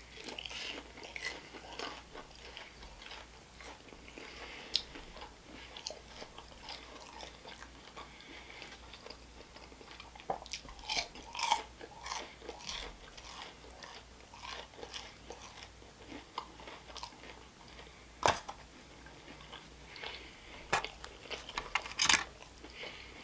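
Close-miked chewing of a crispy, cinnamon-sugar-coated churro with a creamy filling: soft crunches and mouth sounds, with a few sharper clicks scattered through.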